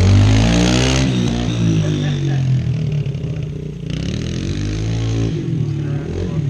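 Small dirt bike engine revving, its pitch high about a second in, then falling away over the next couple of seconds and climbing again near the end.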